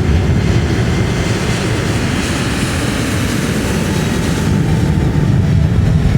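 Jet engines of a Boeing 737-800 airliner (CFM56 turbofans) running loud on the airfield, a deep steady rumble with a hiss that swells about two seconds in and fades again about four and a half seconds in.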